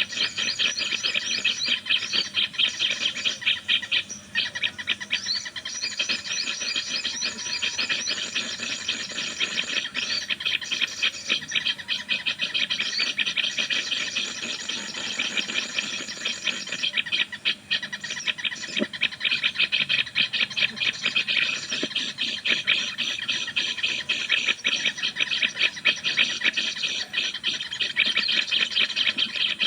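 Small birds chattering without a break in rapid, high-pitched trills, many notes a second.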